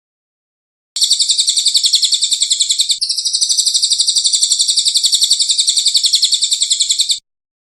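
A bird's high-pitched, rapid trill of about ten notes a second, held for about six seconds with a brief break in the pattern about three seconds in, then cut off abruptly. This is a recorded song clip of the kind used to train songbirds.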